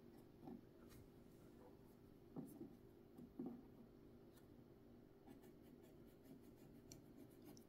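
Very faint scratching and rubbing as grime is cleaned by hand out of the inside of a vintage Kenmore sewing machine, with a few slightly louder strokes about half a second, two and a half and three and a half seconds in, over a faint steady hum.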